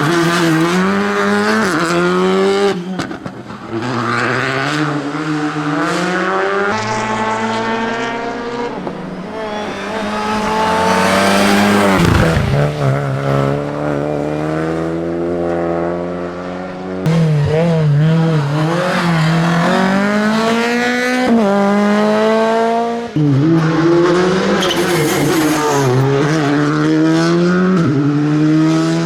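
Rally car engine at full throttle on a closed stage, revving hard up through the gears: the pitch climbs repeatedly and drops sharply at each gear change as the car passes.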